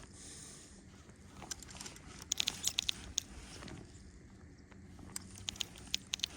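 Scattered light clicks and taps over a faint low rumble, with a quick cluster about two seconds in and another run about five seconds in.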